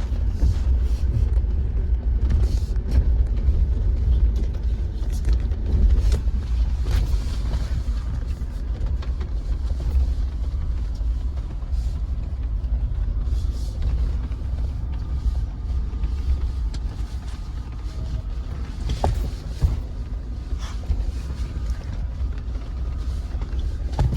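Jeep driving slowly over a rough, rocky dirt trail: a steady low rumble with scattered knocks, rattles and creaks as it goes over bumps.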